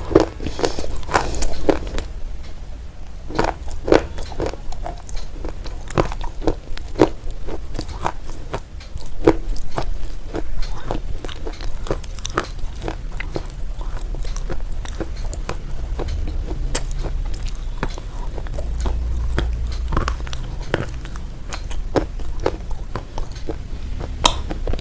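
A person biting and chewing crunchy food: many short, sharp crunches, irregularly spaced.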